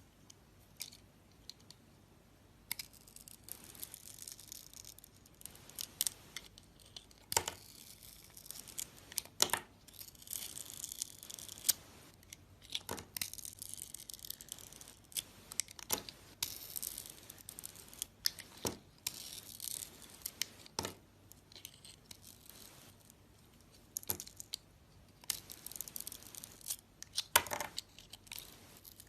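Dry soap being cut up by hand, making crisp, irregular crackling and scraping with sharp snaps, after a quiet first couple of seconds.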